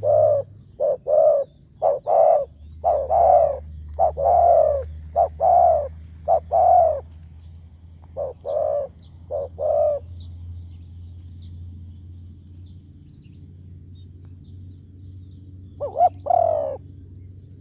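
Spotted dove cooing: a long run of short, deep coos through the first ten seconds, then a pause, then a short phrase of three coos near the end.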